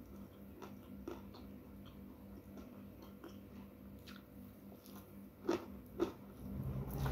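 Close-miked ASMR eating by hand: wet chewing and lip-smacking clicks while a handful of rice is eaten. Two sharper clicks come a little past halfway, and a louder rustling swell begins near the end.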